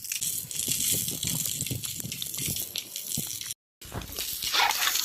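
Maandazi dough deep-frying in hot oil, a steady high sizzle with small knocks and clicks mixed in. The sound cuts out completely for a moment about three and a half seconds in.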